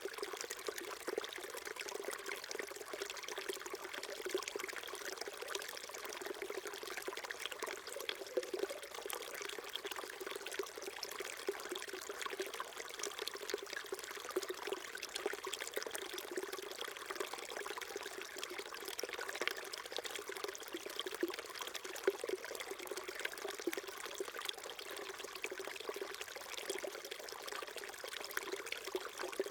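Small stream flowing steadily: water trickling and babbling over stones.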